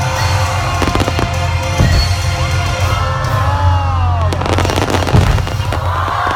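Fireworks going off in rapid succession over the show's music, with a constant deep rumble. A dense volley of sharp bangs comes about four to five seconds in.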